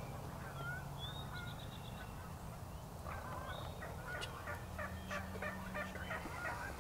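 A quick run of turkey yelps, about four notes a second, starting about three seconds in, with small birds chirping in the background.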